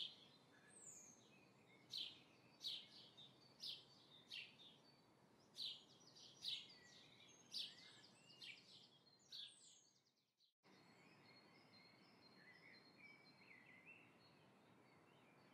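Faint bird chirps: short, sharp calls repeated roughly every second over low room noise. The sound cuts out completely for a moment about ten seconds in, then resumes as softer twittering.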